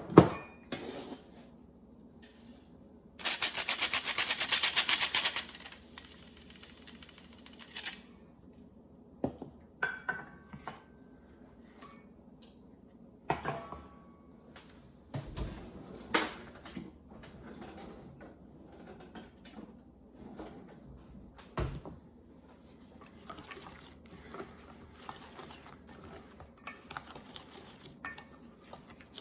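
Kitchen utensils and dishes clinking and knocking during baking prep. About three seconds in comes a loud run of rapid, even clicking lasting about two and a half seconds. After it, scattered single knocks and clinks follow.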